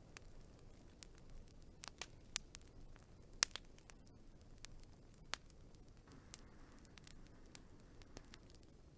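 Wood fire crackling: irregular sharp pops and snaps over a faint low hiss, the loudest pop about three and a half seconds in.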